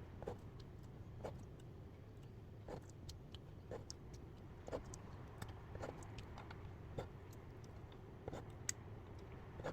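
Light clicks and taps at irregular intervals, roughly one a second, over a low steady hum.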